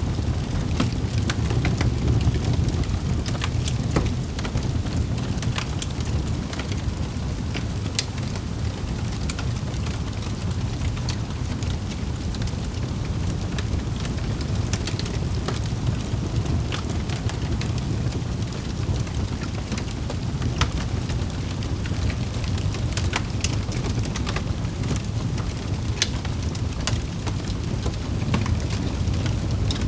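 Wood fire burning in a fireplace: a steady low roar with frequent irregular sharp crackles and pops.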